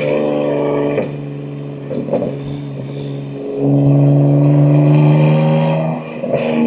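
BMW M2 G87's S58 twin-turbo inline-six, running through catless downpipes and an equal-length mid pipe, holds a steady drone at constant revs. The exhaust swells louder about halfway through, dips briefly near the end, then picks up again.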